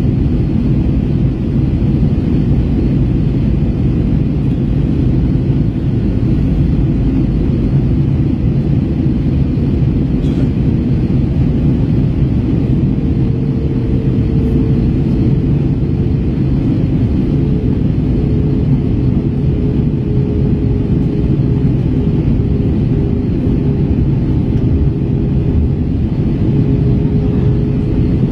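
Airbus A321 cabin noise during the descent on approach: a steady low rumble of engines and airflow, with a faint steady hum joining about twelve seconds in.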